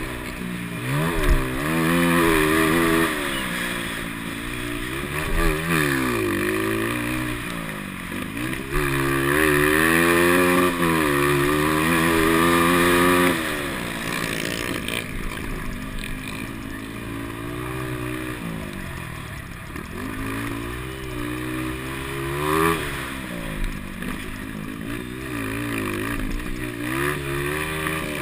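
Motocross motorcycle engines racing, revving up and dropping back over and over as riders accelerate and shift. The bikes are loudest in the first half, fade somewhat in the middle and come back louder near the end.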